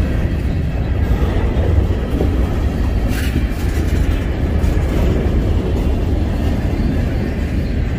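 Freight train rolling past, a steady loud rumble of cars on the rails.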